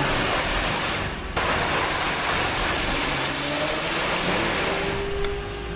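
Pressure washer spraying water onto a car in a steady loud hiss, breaking off briefly about a second in and thinning near the end.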